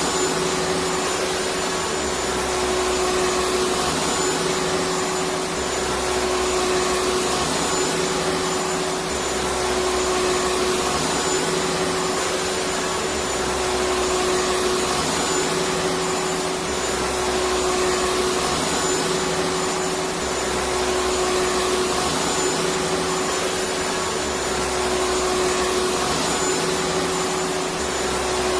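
Electric vacuum cleaner running continuously: a steady rush of air with a constant motor whine, and a low rumble that comes and goes every few seconds.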